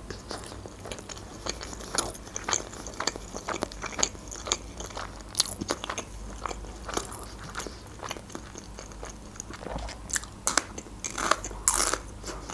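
Close-miked mouth sounds of a person chewing lasagna: many short wet clicks and smacks. Near the end there are a few louder crunches as a slice of raw bell pepper is bitten.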